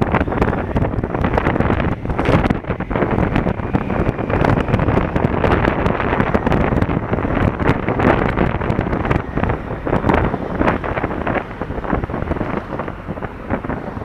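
Wind rushing and buffeting over the action camera's microphone on a moving motorcycle, with irregular crackles from gusts hitting the mic. Underneath is the running of a Honda Africa Twin CRF1000L's parallel-twin engine.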